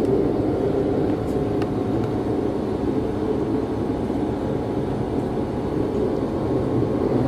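Regional train running along the track, heard from inside the passenger carriage: a steady low rumble of wheels and running gear.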